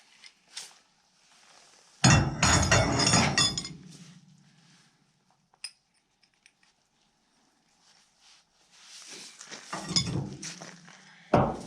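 Metal hand tools clattering and clinking in two bursts: a loud one about two seconds in and a looser one near the end.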